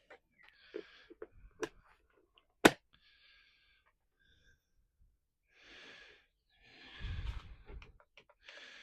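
Quiet handling noises with one sharp click about two and a half seconds in, followed by a couple of breathy exhales near the end.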